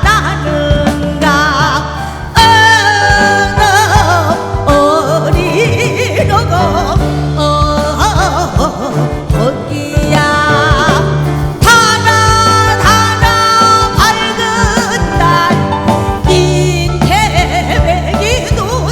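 Korean folk-song (minyo) singing with a wide, wavering vibrato and long held notes, over an instrumental backing with steady sustained bass notes.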